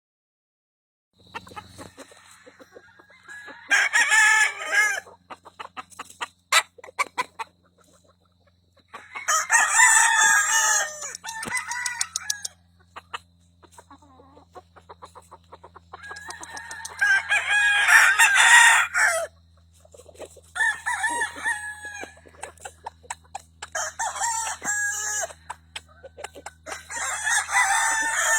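Game roosters crowing: about six long crows, one after another, with softer clucking between them. A low steady hum runs underneath.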